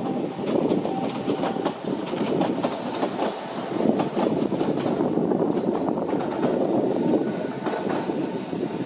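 Sangi Railway Hokusei Line 270-series narrow-gauge electric train running past, its wheels clicking over the rail joints.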